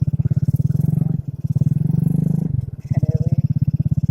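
Yamaha Vega R single-cylinder four-stroke engine running under way, a rapid, even exhaust beat heard muffled from a phone in the rider's shirt pocket. The beat eases briefly twice, about a second in and again just before three seconds.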